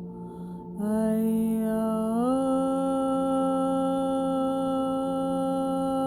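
A voice toning long, steady hummed notes over a constant low drone. It breaks off briefly at the start, comes back about a second in, then glides up a step about two seconds in and holds the higher note.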